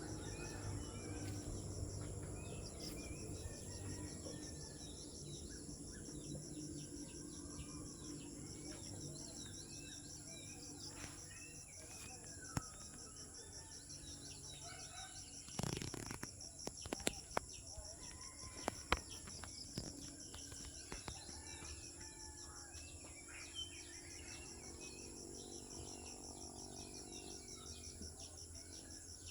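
Insects trilling steadily at a high pitch while birds chirp in short calls throughout, with a few sharp knocks and clicks about halfway through.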